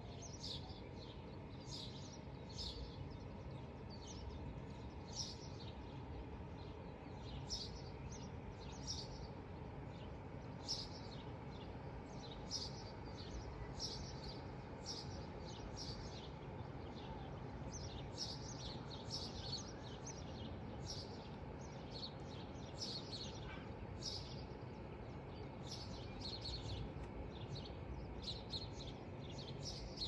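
Small birds chirping: short, high chirps repeating once or twice a second, over a steady low background hum.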